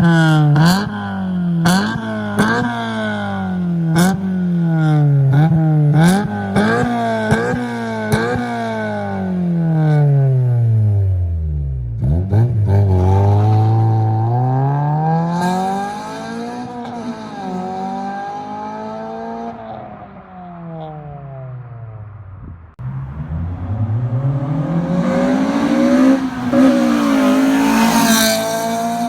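Honda Civic Si's 1.6-litre B16A2 four-cylinder, breathing through an aftermarket intake and exhaust, being revved over and over. For the first ten seconds it gives quick blips about once a second, with sharp clicks among them. Then come slower, longer revs that fall off, and near the end one long climb to the highest revs.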